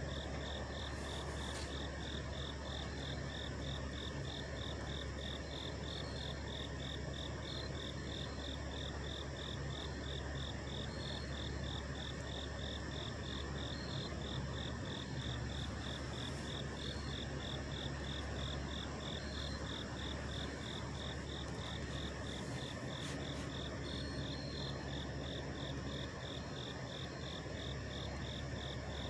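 Several idling trucks make a steady low engine drone. Over it, an insect chirps high and fast in an even, unbroken rhythm.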